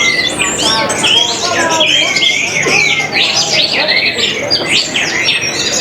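Several orange-headed thrushes singing at once, a dense, unbroken tangle of fast rising and falling whistled phrases and chirps.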